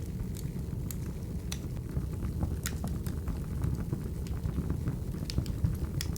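Wood fire burning: a steady low rumble of flames with sharp crackles and pops, about eight of them.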